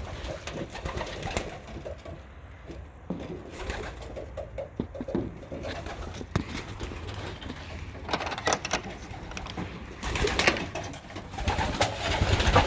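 Racing pigeons cooing in the loft, with a few bursts of rustling noise in the second half.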